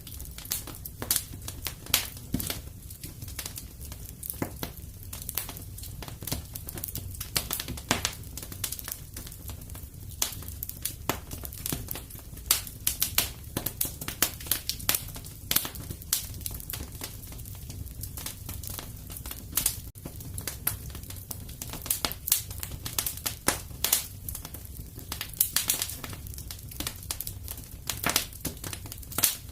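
Wood fire in a fireplace crackling: a dense, irregular stream of sharp pops and snaps over a steady low rumble.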